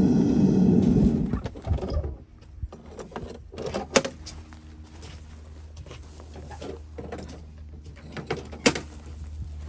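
A short, loud burst of a power tool, then scattered knocks and clicks of tools and parts being handled, two of them sharper than the rest, over a steady low hum.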